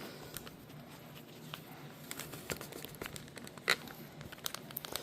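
Faint scattered clicks and taps of small objects being handled on a work surface, with one sharper click about three and a half seconds in.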